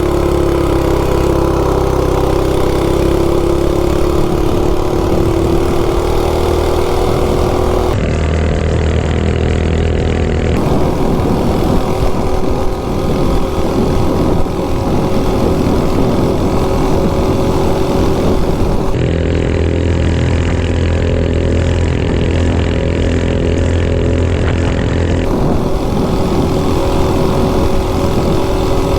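Ungoverned Coleman 196cc single-cylinder engine on a minibike running at wide-open throttle through a header pipe, its high engine note holding nearly steady during a top-speed run, with heavy wind rumble on the microphone.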